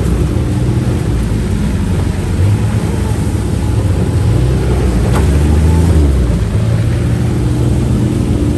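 A UTV's engine running steadily under way, its low drone shifting pitch a few times as the throttle changes.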